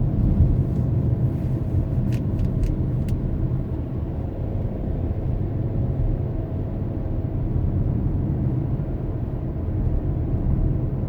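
Car driving on the road: a steady low rumble of tyres and engine, with a few faint clicks about two to three seconds in.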